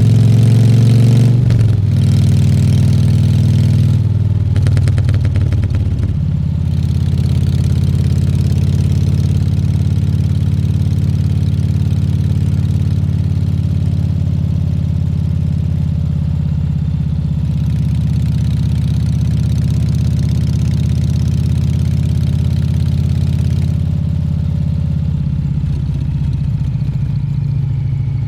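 Harley-Davidson Fat Bob 114's Milwaukee-Eight 114 V-twin engine running at low revs. The revs drop in the first couple of seconds, then the engine runs steadily, with a short rapid clatter about four to six seconds in.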